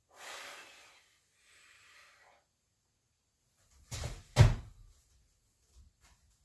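Two short hissing sounds, then two heavy knocks about half a second apart, the second the loudest: gym equipment being handled or set down.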